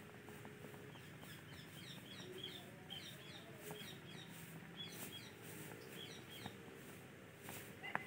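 Faint bird chirping: a run of short, quick high notes, several a second, starting about a second in and stopping near the end, with a few soft ticks and one sharp click at the very end.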